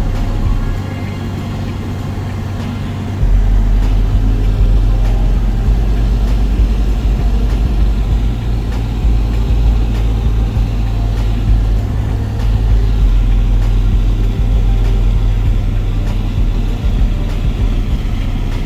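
Piper PA28 light aircraft's piston engine and propeller running with a steady low drone. It drops in level about a second in and comes back up at about three seconds.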